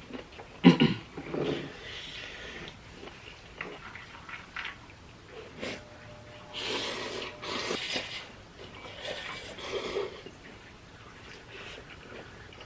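Ramen noodles being slurped and eaten, in several short noisy bursts, with a brief louder sound about a second in.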